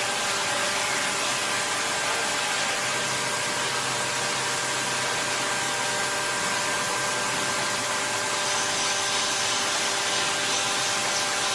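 A machine running steadily: an even hiss with several steady whining tones, unchanging in level.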